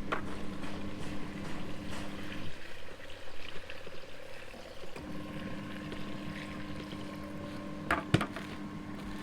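Mini portable washing machine's wash motor turning the load, stopping about two and a half seconds in and starting again about five seconds in as the drum reverses direction, with water sloshing. Two sharp knocks near the end.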